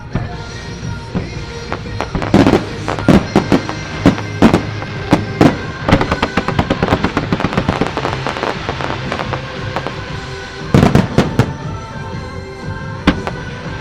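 Aerial fireworks bursting in a rapid series of sharp bangs over the show's music. A dense run of crackling bursts comes in the middle, and a cluster of heavier bangs comes near the end.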